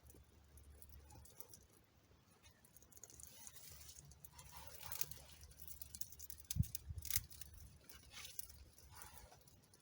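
Faint scrapes and crackles as a small campfire is being lit by hand, with a single dull knock about six and a half seconds in.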